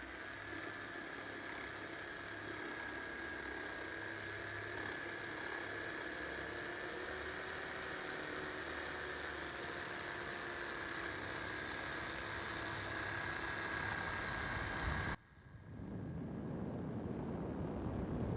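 An electric power tool motor running steadily with a high whine. About 15 seconds in it cuts off abruptly and a rougher, hissing noise builds up.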